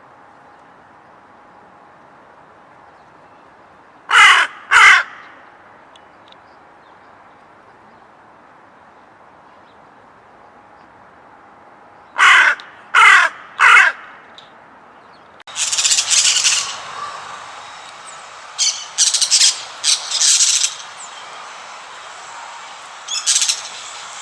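A crow cawing: two caws, then three more in quick succession about eight seconds later. Past the middle the background changes abruptly, and a series of short, harsh, scratchy high-pitched sounds follows in small groups.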